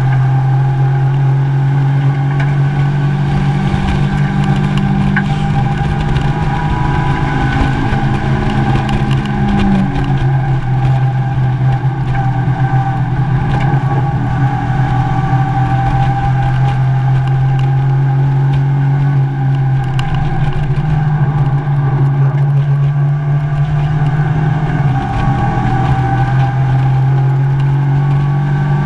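Mazda MX-5 race car's four-cylinder engine running hard at racing speed, heard from inside the cabin along with road and wind noise. The engine note is loud and steady, with its pitch changing a couple of times.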